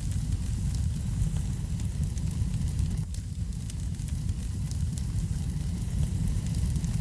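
Wood fire burning in a fireplace: a steady low rumble of the flames with many small, scattered crackles.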